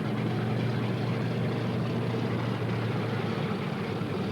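P-38 Lightning's twin Allison V-12 piston engines running in a steady propeller drone as the fighter taxies.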